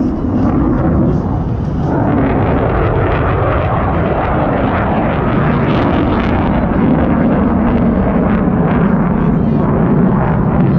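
Military jet flying a display overhead: a loud, steady jet-engine roar that swells about two seconds in and stays loud.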